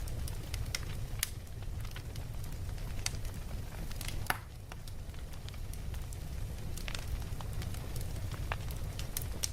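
Wood fire crackling: irregular sharp pops and snaps over a steady low rumble, with one louder pop a little over four seconds in.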